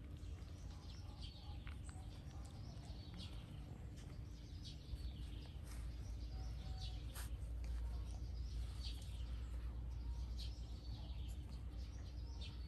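Birds chirping: short high calls repeating at irregular intervals, over a low steady rumble.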